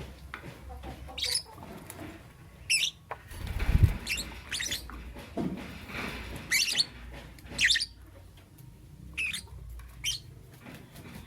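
Lovebird giving short, sharp chirps every second or so, with small clicks and one low thump about four seconds in.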